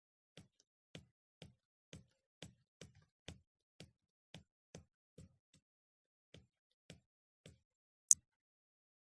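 Faint, short clicks or taps, roughly two a second at uneven spacing, with one much louder, sharp click near the end.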